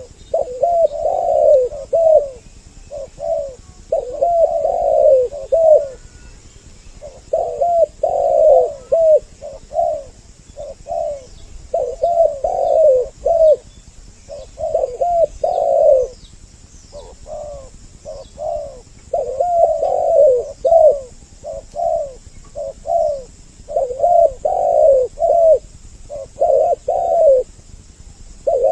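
Spotted doves cooing, two birds calling back and forth in repeated phrases of several coos every few seconds. Faint high chirps from small birds are heard in the middle.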